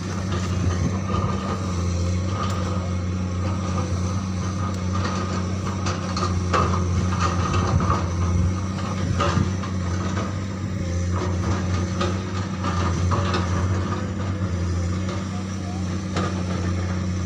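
Komatsu PC200 hydraulic excavator's diesel engine running steadily at a constant pitch while it works, with a few short clanks and knocks from the machine through the middle.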